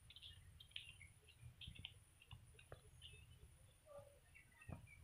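Faint birdsong: scattered short chirps over a low steady rumble, with a couple of soft knocks near the end.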